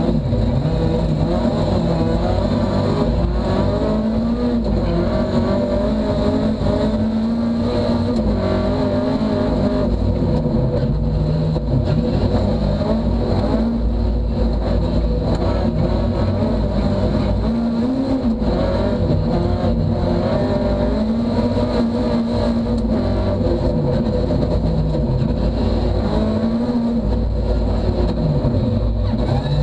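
Ford Fiesta rally car's engine, heard from inside the cabin, revving hard and falling away again and again through gear changes and corners.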